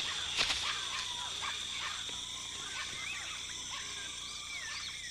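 Rainforest ambience: a steady high insect drone with many short chirping animal calls that rise and fall in pitch.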